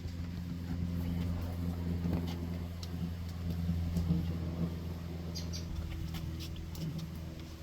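Steady low engine hum, with a few faint ticks and high chirps over it.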